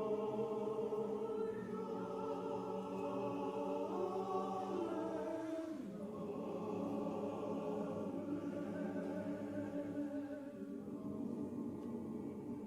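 Church choir singing sustained chords, the parts moving to a new chord about five seconds in and the sound growing quieter near the end.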